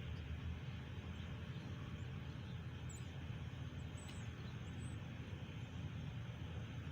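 Steady low background rumble, with a few faint high chirps between about three and five seconds in.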